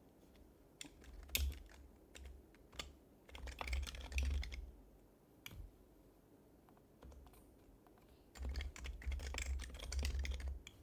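Typing on an HHKB Professional HYBRID Type-S keyboard, whose silenced Topre keys give soft, muted clacks with a dull low thud. It comes in three spurts of quick keystrokes, about a second in, around four seconds in, and a longer run near the end, with pauses between them.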